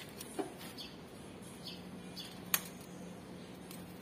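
A small bird chirping over and over in short, falling chirps. A sharp click sounds about two and a half seconds in, over a faint steady low hum.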